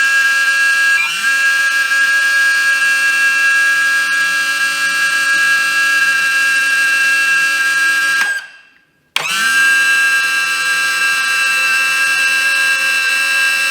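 Bigfoot hydraulic landing gear's electric pump running under load, a loud steady whine made of many tones. It cuts out about eight seconds in and starts again about a second later. It sounds ugly, not happy, a noise the owner thinks may come from a lot of air in the hydraulic system.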